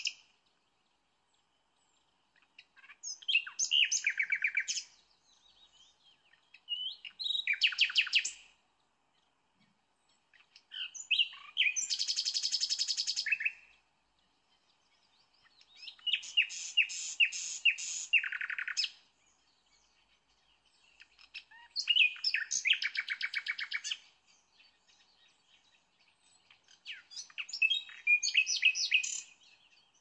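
A songbird singing in separate phrases of about two seconds each, repeated every four to five seconds, six times. Each phrase is a fast run of repeated high notes.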